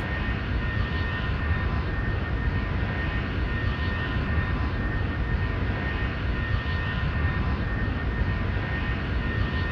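Jet airliner engines running steadily: a constant low rumble with a thin, steady high whine.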